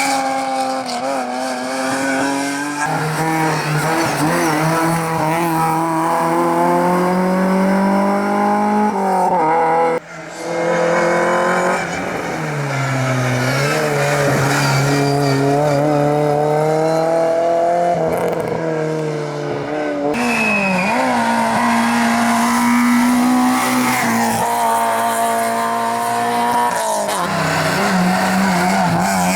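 Competition cars at full throttle, one after another: engines rev up and drop back again and again through gear changes and braking, with abrupt cuts from one car to the next.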